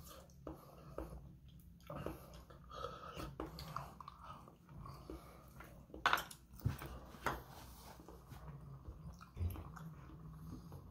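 A person chewing sashimi in close-up, with a few sharper clicks of chopsticks against the plastic takeout tray about six to seven seconds in.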